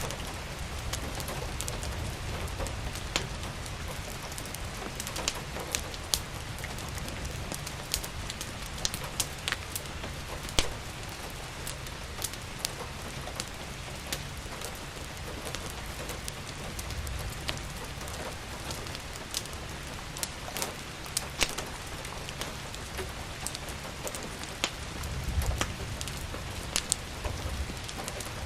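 Steady rain with the irregular sharp crackles and pops of a wood fire scattered through it, over a low rumble.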